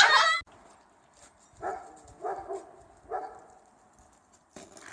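A dog making four short vocal sounds, spaced about half a second apart, in the middle of an otherwise quiet stretch.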